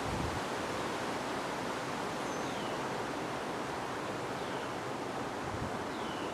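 Steady wind blowing, a broad even rush. A few faint, short, high chirps falling in pitch sound over it.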